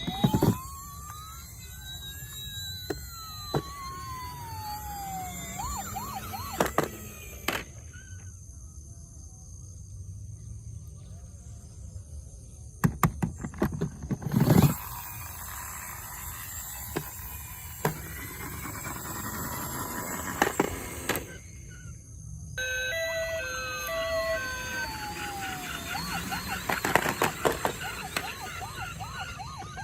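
Electronic siren sounds from battery-powered toy emergency vehicles: slow wailing sweeps that rise and fall, with fast yelping warbles and short beeps. A few sharp knocks come about halfway through.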